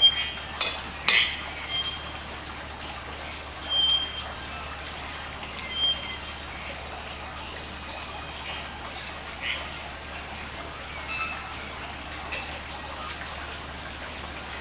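Three-wattled bellbird calling: short, pure whistled notes repeated about every two seconds, with two sharp, loud notes about a second in, over a steady hiss.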